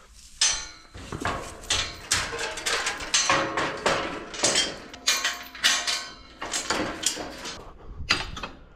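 Steel livestock gates and pen panels clanking and rattling in a quick, uneven series of sharp metal knocks.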